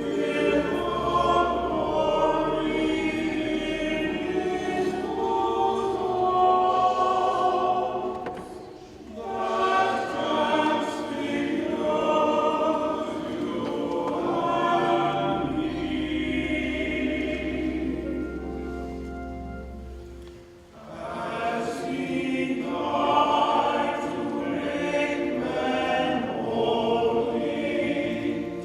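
Choir singing sustained chords, with short breaks between phrases about nine and twenty seconds in.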